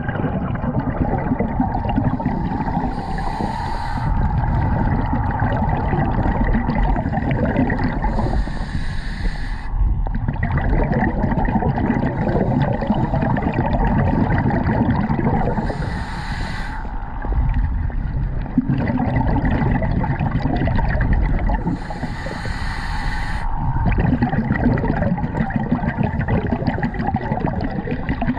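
Scuba diver breathing through a regulator underwater: a steady low watery rumble, with a rushing burst of breath and bubbles about every six seconds, four times.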